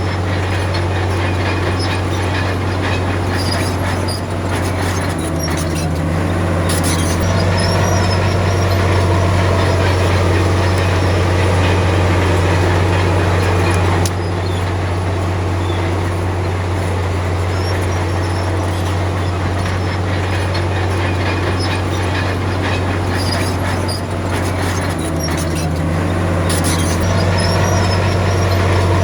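Heavy diesel engine of a Komatsu D53P crawler bulldozer running under load while pushing soil, its note swelling and easing about every ten seconds.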